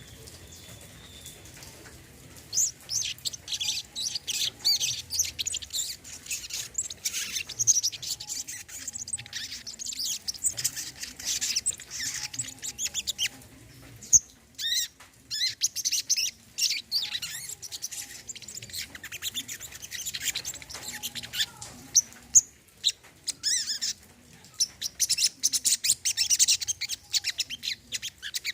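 Brown-throated sunbird (kolibri kelapa) singing a fast, high-pitched twittering song of rapid chirps, starting about two and a half seconds in, with short pauses along the way.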